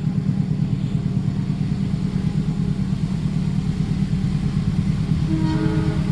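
Train passing over a level crossing: a steady, low, heavy rumble with fast, even pulsing. A steady pitched tone comes in about five seconds in.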